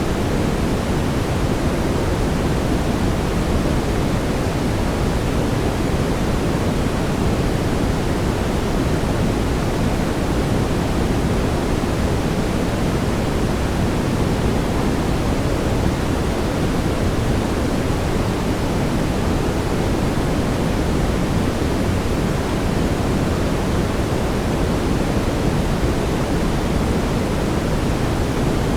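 Steady synthetic brown noise: an even, deep hiss weighted toward the low end, with no tones or events.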